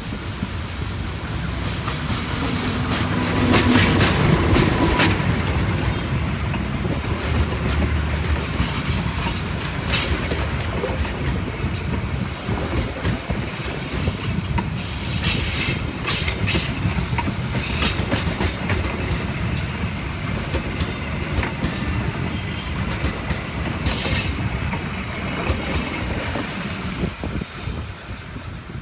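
A train crossing a railway viaduct: a steady rumble of wheels on rail, with sharp clacks every few seconds as the wheels pass over rail joints, easing off near the end.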